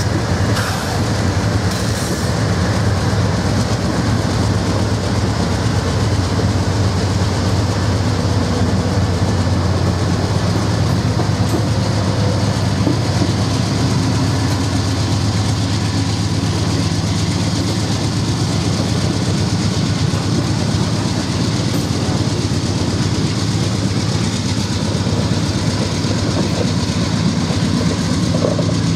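Norfolk Southern freight train rolling past: a steady, loud run of wheels on rail with some clickety-clack and a low steady rumble.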